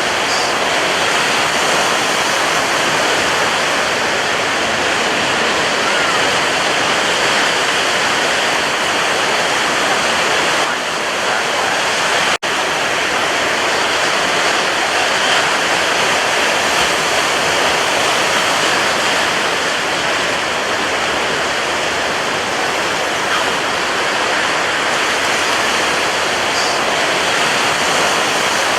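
Ocean surf: a steady, dense rush of breaking waves with little rise and fall, broken by a momentary gap about twelve seconds in.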